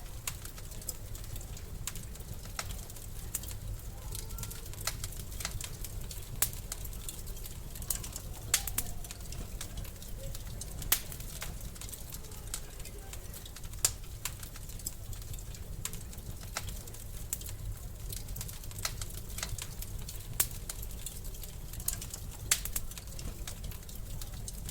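Wood fire in a fireplace crackling: a steady low rumble of the flames with constant small crackles and a sharp pop every few seconds.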